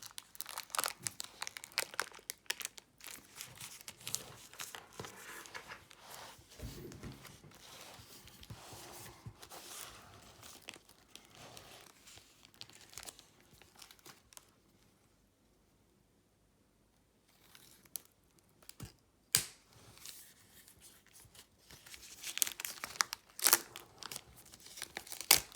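Plastic shrink-wrap being torn and peeled off a cardboard trading-card booster box, crinkling and tearing. It pauses to near quiet about halfway, then a couple of sharp snaps and more crinkling follow near the end.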